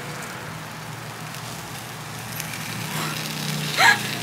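Takoyaki batter sizzling and crackling in a takoyaki pan over a portable gas stove, over a steady low hum, as a wooden skewer works the balls. A brief, loud rising sound comes near the end.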